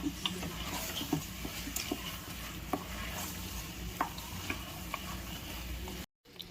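Chicken sizzling in fried masala in a pressure cooker, stirred, with light clicks and scrapes of the utensil against the metal pot every second or so. The sound cuts out abruptly near the end.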